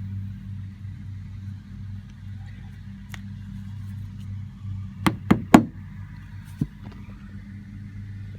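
Three quick sharp knocks about five seconds in, then a lighter one a second later: a Cortex plug being tapped flush into a PVC trim board over the screw head. A steady low hum runs underneath.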